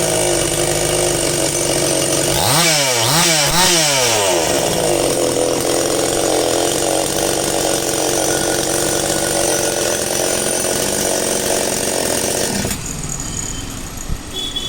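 Petrol chainsaw engine idling, then revved up and down about three times in quick succession and held running at high speed. The engine sound drops away sharply near the end.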